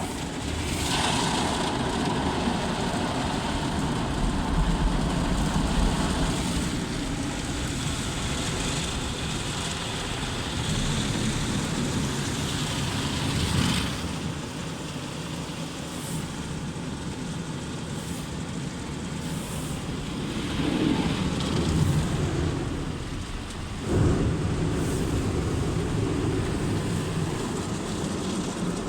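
Automatic car wash heard from inside the car's cabin: a loud, steady rush of spray and machinery noise that changes abruptly several times, about half a second in, around six and fourteen seconds, and again near twenty-four seconds.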